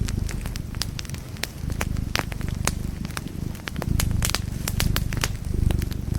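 Wood fire in a fireplace crackling, with many irregular sharp pops and snaps over a low steady rumble of the flames.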